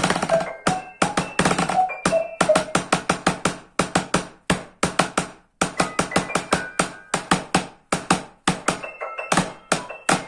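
Percussion ensemble music on noise instruments: a quick, steady run of sharp strikes, about three to four a second, with short pitched ringing tones among them. It stops just at the end.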